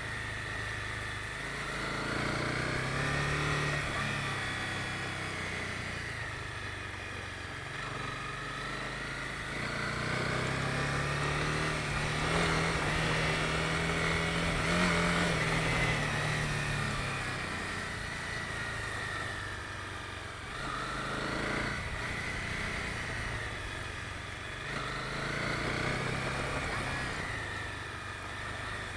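Honda CB250R's single-cylinder engine pulling the bike along, its note rising and falling with the throttle, held highest for a few seconds in the middle.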